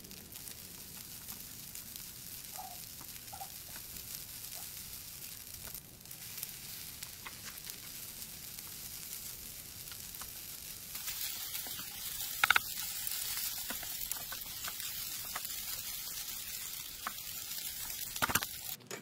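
Seafood tom yum fried rice sizzling in a non-stick frying pan as it is stirred and tossed with a spatula. The sizzle grows louder about halfway through, with a few sharp clicks of the spatula against the pan.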